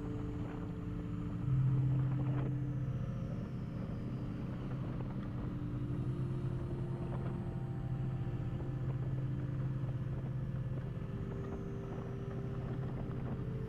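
Kawasaki Vulcan motorcycle running steadily under way, with wind and road rumble; it gets louder briefly about a second and a half in.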